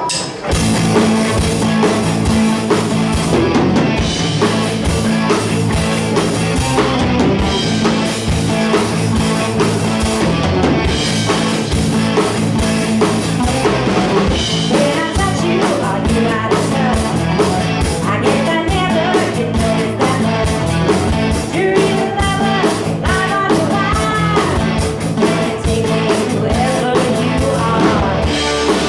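Rock band playing live: drum kit, electric guitar and bass kick in together just after the start and keep a steady driving beat, with a singing voice coming in over them about halfway through.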